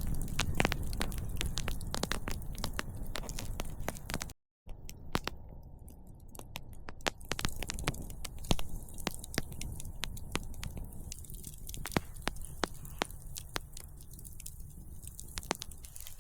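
Wood campfire crackling, with many irregular sharp pops and snaps over a low rumble. The sound cuts to dead silence for a moment about four seconds in.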